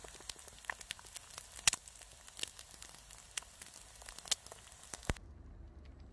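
An egg frying in a pan over a campfire: a steady sizzle with frequent sharp pops and crackles. It cuts off abruptly about five seconds in.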